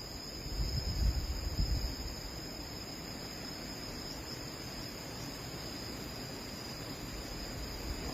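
A steady, high-pitched insect drone, like crickets or cicadas in forest, over a low rumble that swells briefly about a second in.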